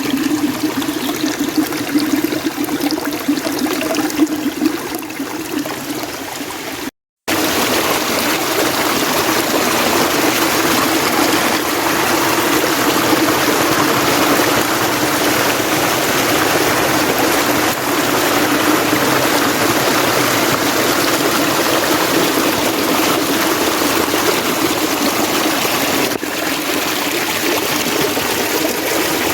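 Mountain stream running over rocks, a steady rush of water. It cuts out completely for a moment about seven seconds in, then comes back fuller.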